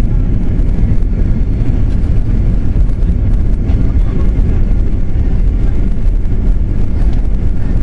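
Airliner cabin noise: a loud, steady low rumble of jet engines and airflow heard from inside the passenger cabin.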